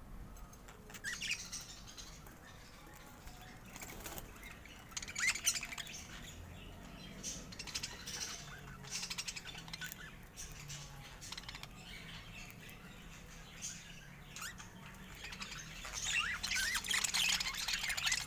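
Budgerigars chirping and chattering in short scattered bursts, getting busier and louder near the end.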